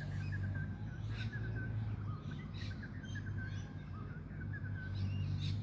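Small birds chirping, a quick run of short repeated calls, over a steady low background hum.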